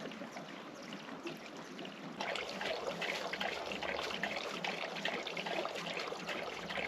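Water pouring in a steady trickle, getting louder and fuller about two seconds in.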